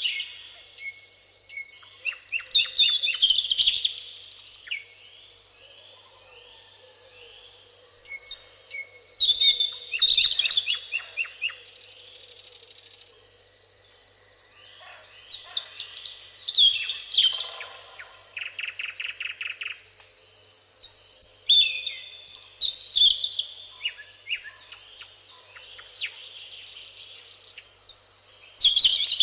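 Several songbirds singing and calling, with overlapping phrases, chirps and rapid trills rising and falling every few seconds, over a steady high-pitched tone.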